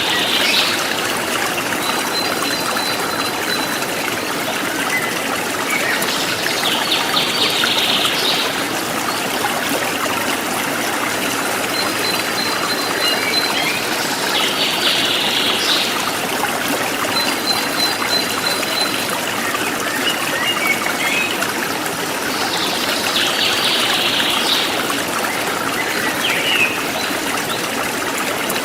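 A forest stream running steadily. Over it, birds sing: a short burst of high chirps comes about every eight seconds, with thin high trills in between.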